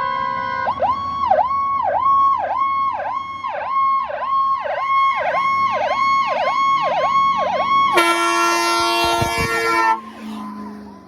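Emergency vehicle siren: a steady high tone that switches almost at once to a fast yelp, rising and falling about twice a second. About eight seconds in it gives way to a loud horn blast, which fades out near the end.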